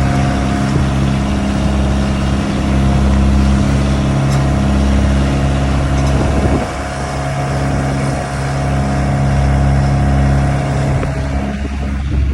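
Boat engine running steadily with a low, even drone, a higher steady whine over it that drops out near the end.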